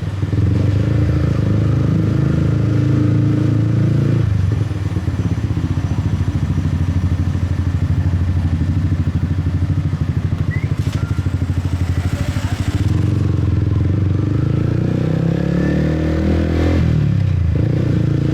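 155 cc motorcycle engine running steadily, then from about five seconds in settling into a slow, evenly pulsing idle for several seconds. It picks up again about thirteen seconds in and rises in pitch near the end.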